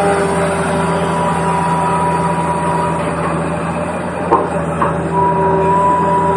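Toy remote-control excavator running: a steady low motor-and-gear hum with steady whining tones over it, and two sharp clicks a little past the middle.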